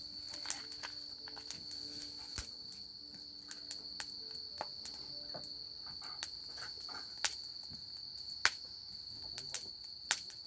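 Crickets trilling steadily and high, with the irregular sharp crackles and pops of a wood campfire.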